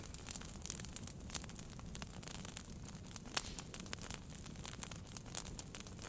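Wood fire in a fireplace crackling, with irregular snaps and a few louder pops over a low steady rumble of the flames.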